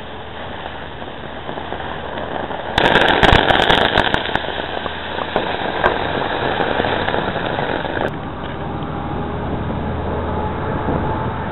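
Shower of burning sparks hissing and crackling, starting suddenly about three seconds in, with sharp crackles over it, and easing after about five seconds into a lower steady hiss.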